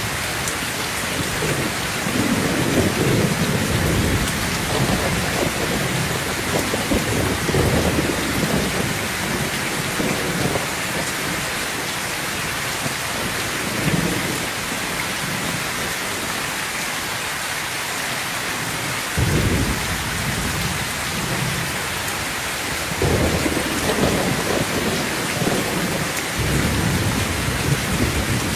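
Heavy rain pouring steadily on a metal roof, with thunder rumbling low in repeated rolls every few seconds.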